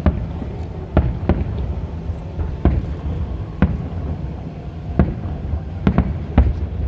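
Aerial fireworks display: about eight sharp bangs of bursting shells at uneven gaps, some in quick pairs, over a steady low rumble.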